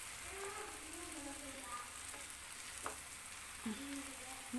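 Stuffed ripe-plantain (ethakka) snack balls frying in hot oil: a steady sizzle, with a couple of light clicks near the end. The snacks have just been turned and are browning quickly.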